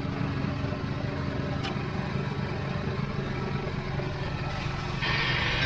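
An engine running steadily at idle, a low hum. Near the end a louder hiss sets in.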